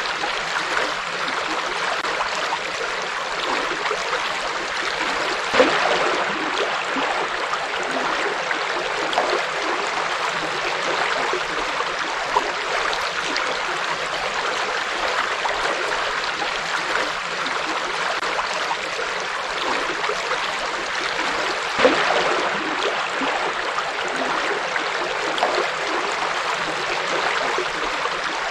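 River flowing steadily over rocks, with a few brief louder splashes, the clearest about six seconds in and about twenty-two seconds in.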